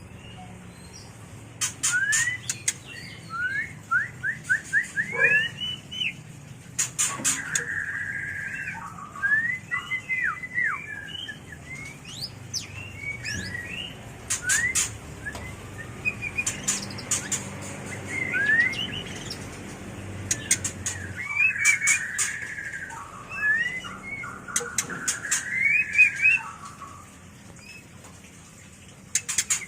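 White-rumped shama singing its breeding-season mating song: phrases of quick rising whistles and fast runs of repeated notes, with sharp clicks, broken by short pauses. It is the kind of song used to stimulate caged shamas into song and to lure wild ones.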